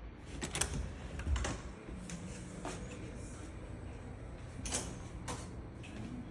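Scattered light knocks and clicks, about a dozen irregular ones, over a low steady rumble.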